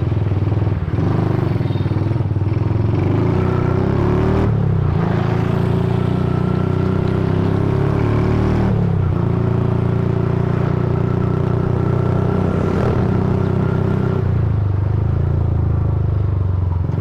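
Motorcycle engine running steadily while riding, its pitch briefly shifting twice, as with changes of throttle or gear.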